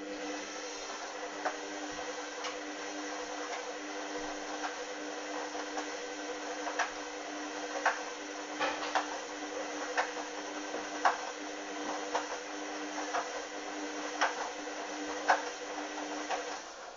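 Hoover Dynamic washing machine turning its drum during a 30 °C main wash: a steady motor hum with irregular clicks and knocks about once a second. The drum stops shortly before the end.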